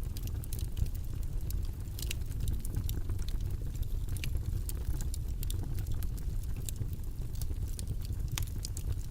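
Steady low white-noise track with scattered light clicks and taps over it, several a second and irregular.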